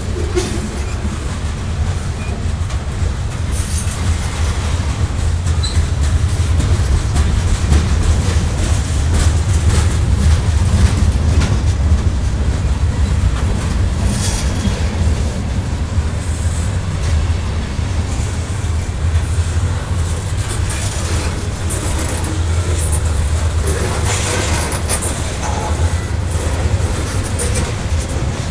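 Freight train of covered hopper cars rolling past at steady speed: a continuous low rumble of steel wheels on rail. Three times a brief higher screech rises over it.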